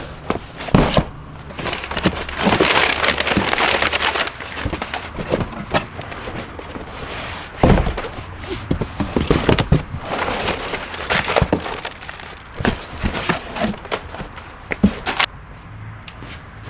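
Hands handling tools and parts: an irregular run of clicks and knocks with stretches of rustling, and a loud knock about halfway through.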